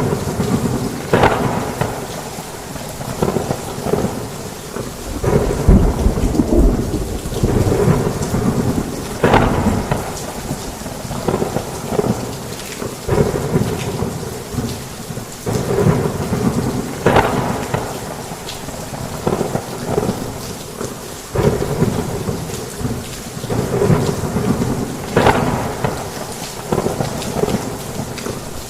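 Heavy rain falling steadily on a roof, with rolling thunder rumbling underneath that swells and fades repeatedly.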